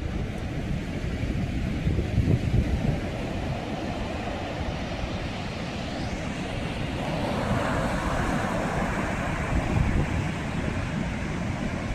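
Sea waves breaking and washing in, with gusts of wind buffeting the microphone; a wave's hiss swells up about seven seconds in.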